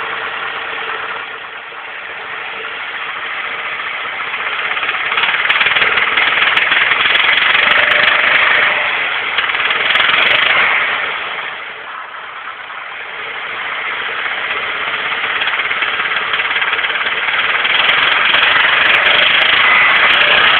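Nissan SR20DE four-cylinder engine revved up and held for several seconds, easing off about halfway, then revved up again. The owner reports a knocking sound that starts around 2000 rpm, stops when he lets off and returns when he revs again.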